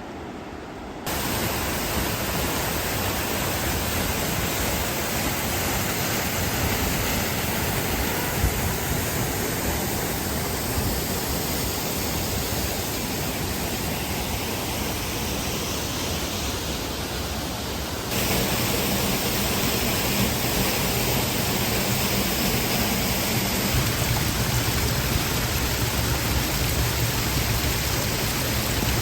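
Steady, loud rush of fast-flowing water, full across the range, with a sudden change in its sound about 18 seconds in.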